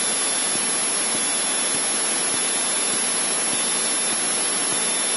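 Steady rushing cockpit noise inside a Cessna 152 in flight: engine and airflow noise at reduced power in a descent, at an even level.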